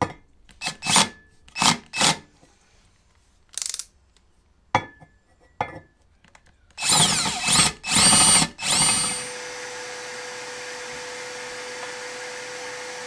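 Power drill enlarging an existing hole in a trolling motor mount: a few short trigger bursts, two sharp clicks, then the motor spinning up and winding down several times before it runs at a steady speed from about nine seconds in.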